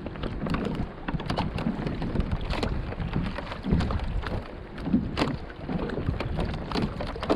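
Wind buffeting the microphone, with scattered splashes, drips and sharp knocks and clicks as a speckled trout is handled and put on a stringer at the side of a kayak.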